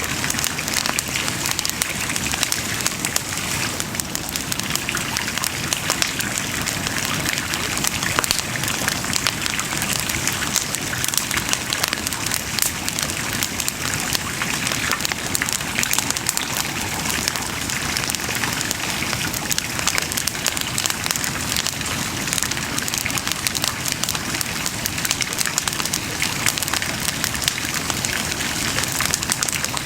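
Wood bonfire burning steadily: a constant hissing crackle with many small sharp pops throughout.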